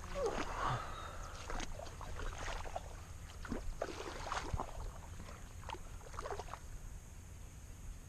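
River water splashing and sloshing in irregular bursts, dying away near the end, over a steady low rumble.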